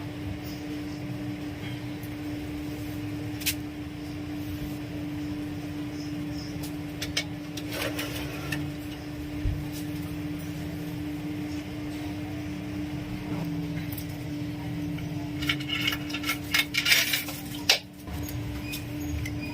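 Home-made steel striker scraped against flint in short, sharp strikes: one about three and a half seconds in, a few around eight seconds, and a quick run of strikes near the end. A steady low hum with one constant tone runs underneath.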